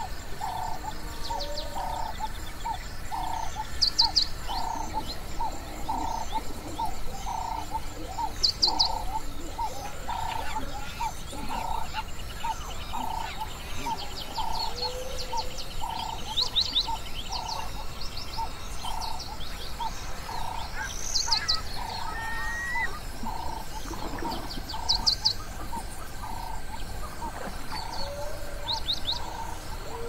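Birds calling in an outdoor wildlife ambience: a steady run of short, lower-pitched calls, about two a second, with brief high chirps and trills every few seconds above them.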